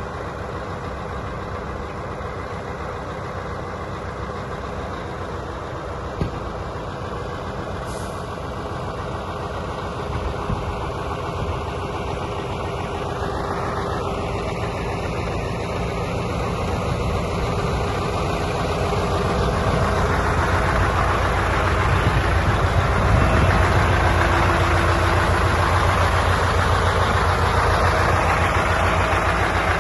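Scania T144-530 truck's V8 diesel engine running at idle. It grows steadily louder through the middle and stays loud near the end.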